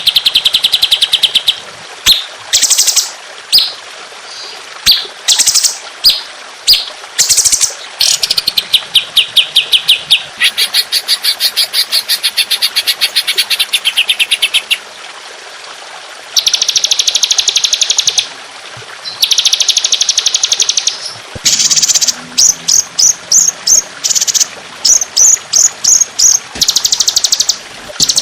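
Songbird calls from a bird-training (masteran) recording: strings of sharp high-pitched 'shot' notes repeated in quick succession, with several long rapid rattling trills of about two seconds each in the middle, and a run of short bursts near the end.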